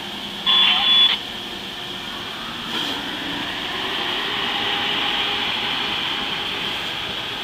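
Trains moving slowly through an electrified rail yard: a steady running rumble and hiss that swells from about three seconds in. A short, loud high-pitched beep sounds about half a second in.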